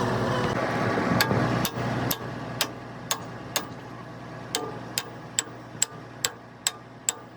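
Hammer tapping on metal in a steady rhythm, about two light ringing strikes a second, starting about a second in, over a steady low hum.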